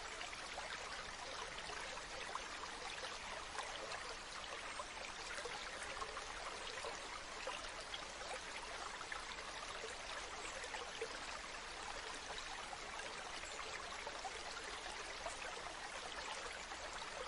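Waterfall: a steady rush of falling water, with fine splashing running through it.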